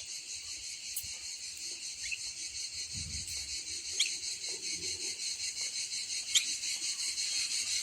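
Steady, pulsing high drone of insects with a bird giving short rising whistled chirps, four of them about two seconds apart.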